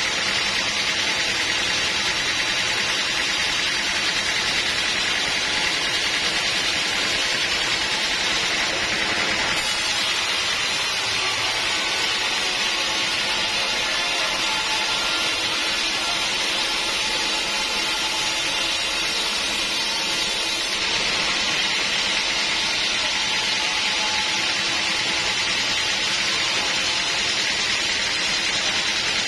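Sawmill saw running steadily as it cuts teak into planks, a constant high, hissing noise. It turns brighter and sharper about ten seconds in and back again about eleven seconds later.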